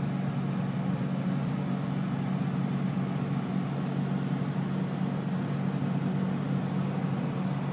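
Inside the cabin of a 2003 Land Rover Discovery S driving slowly: the V8 engine's steady drone over road noise.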